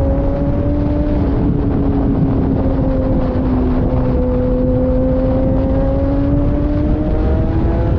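Kawasaki Ninja ZX-10R superbike's engine running at high, nearly steady revs under way, with wind rumble underneath. The engine note sags slightly in the middle and climbs again near the end.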